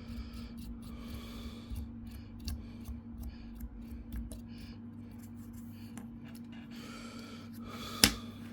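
Small clicks and light rubbing from handling and wiping laptop heatsink and fan parts, with a sharp click near the end. A steady low electrical hum and soft breaths close to the microphone run under it.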